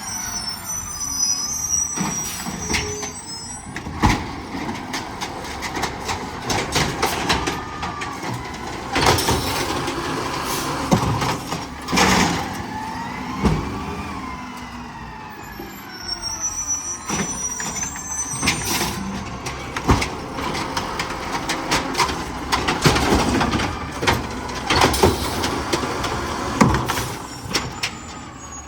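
Garbage truck at work: repeated clanks and bangs over the running engine, with a whine that rises and falls in pitch about halfway through.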